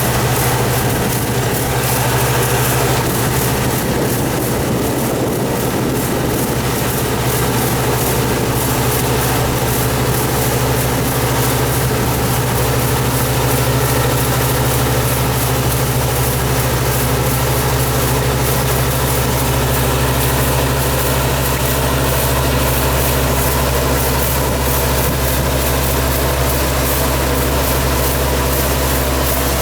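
Yanmar combine harvester running steadily, a constant low engine drone with machinery noise over it.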